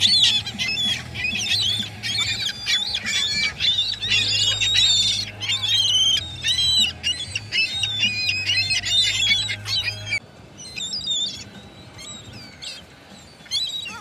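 A flock of gulls squawking over one another in a dense chorus of harsh calls. About ten seconds in the chorus suddenly thins to a few fainter calls.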